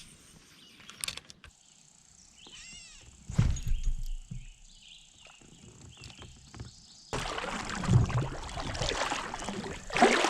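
Scattered knocks and bumps on a kayak, then from about seven seconds in a louder steady rushing noise with low thumps as the kayak is paddled.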